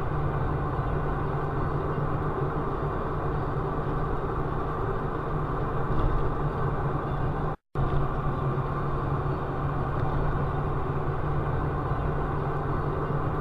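Steady engine and road noise of a moving vehicle picked up by a dashcam, a constant drone with no sudden events. The sound cuts out for an instant a little past halfway, then the same drone resumes.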